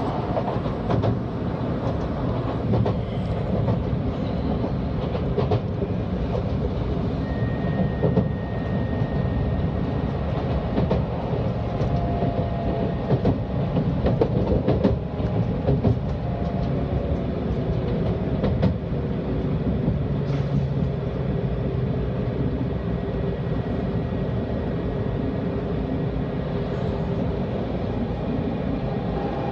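Steady rumble of a Shinkansen train heard from inside the passenger cabin as it slows into a station, with wheel clatter over rail joints and points that is densest around the middle. A few faint thin whining tones come and go.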